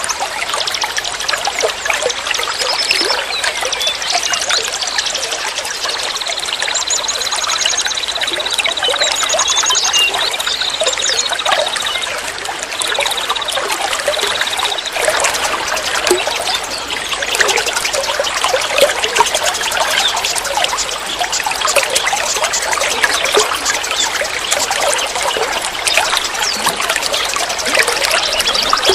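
Water trickling and flowing in a steady splashing stream. A long, high, fast trill runs over it from about six to fifteen seconds in, with a few shorter higher trills around it.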